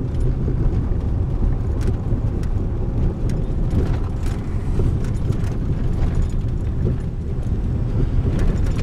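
Pickup truck driving slowly over a bumpy road, heard from inside the cab: a steady low rumble with scattered light knocks and rattles.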